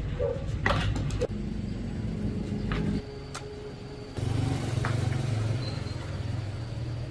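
Engine running steadily. It drops about three seconds in and picks up again about a second later, with a few sharp clicks.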